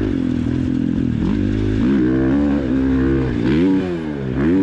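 Dirt-bike engine under way, running steadily, then revving up about two seconds in. Its pitch drops and climbs again twice near the end as the throttle is cut and reopened.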